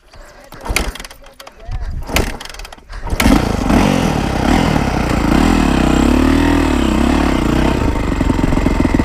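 A dirt bike engine starts abruptly about three seconds in, after a few clicks, and settles into a steady idle, its pitch rising and falling briefly with light throttle blips.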